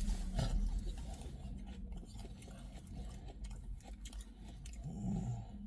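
Close-up chewing of a mouthful of doner kebab, with small irregular wet clicks and crunches and a low rumble underneath.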